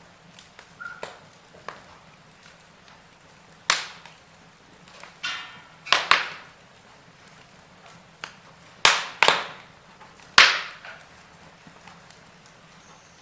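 Wood fire crackling in a fireplace: irregular sharp pops and snaps, about seven loud ones in the second half, over a faint steady hiss.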